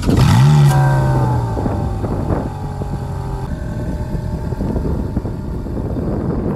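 Ferrari F430's V8 firing up. It flares in revs at once, then settles into a steady fast idle that eases lower over the next few seconds. About three and a half seconds in, the idle drops to a lower, rougher-sounding run.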